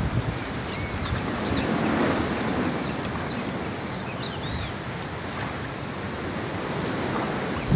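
Strong wind rushing over the microphone, with a bird giving a series of short, high chirps through the first few seconds.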